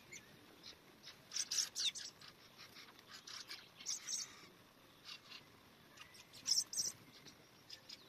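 Thrushes calling: short, high chirps in scattered clusters, loudest about one and a half seconds in, around four seconds and again about six and a half seconds in.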